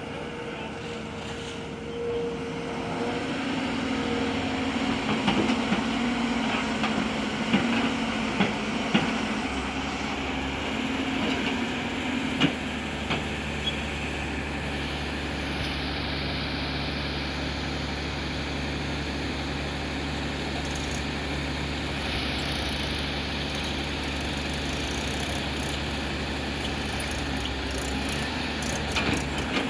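Diesel engines of an excavator and tractors running steadily, with a few sharp knocks in the first half and a deeper engine drone settling in about a third of the way through.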